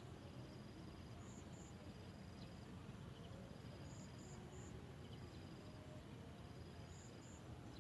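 Faint insect chirping, high-pitched and coming in groups of two or three every few seconds, over a low outdoor rumble.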